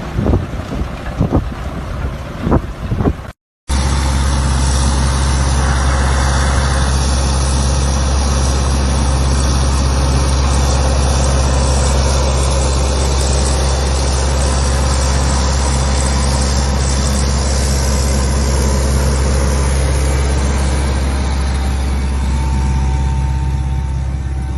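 Tractor engine running steadily with a low, even drone. For the first few seconds, before a brief cut, there are irregular sharp knocks instead.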